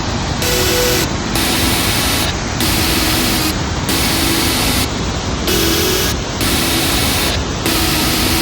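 Pawa waterfall in spate after heavy rain: a loud, steady roar of falling water.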